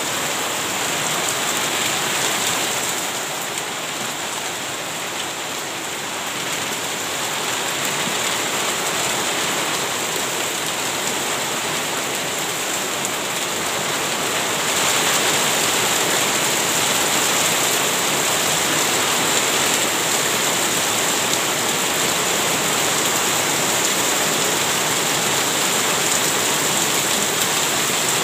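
Steady rain falling on leafy garden plants and wet ground, growing louder about halfway through.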